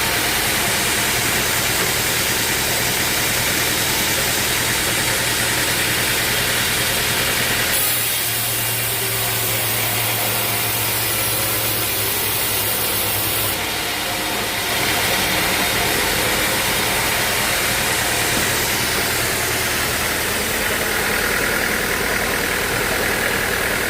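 Band sawmill machinery running steadily with an engine hum. From about eight seconds in, the sound changes for some six seconds, with a higher hiss and a different low hum, then settles back.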